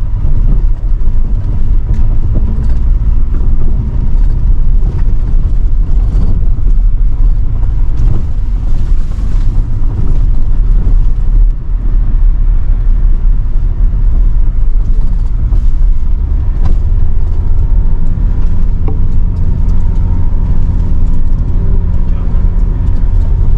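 Car running on the road, heard from inside the cabin: a steady low engine and road-noise rumble.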